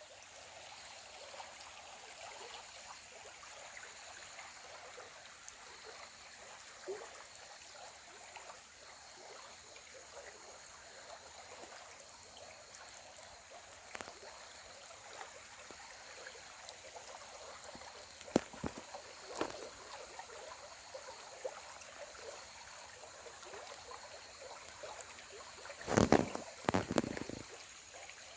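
River water flowing and trickling steadily. There are a few sharp knocks about two-thirds of the way in and a loud bumping burst near the end.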